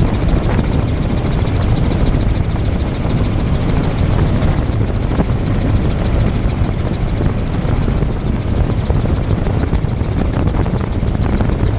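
Helicopter in flight: rotor and engine running steadily, loud and even, with a rapid regular beat running through the noise.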